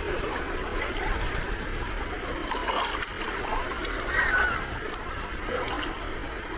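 Gentle sea waves lapping and trickling at the shoreline, with a short high squeak about four seconds in.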